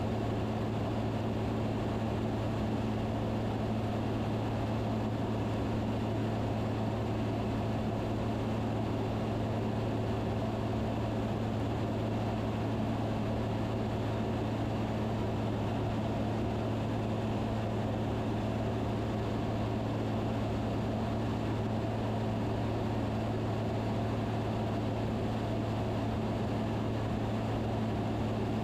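Steady drone of a Van's RV-10's piston engine and propeller in cruise, as heard in the cabin: an even low hum with no change in pitch or level.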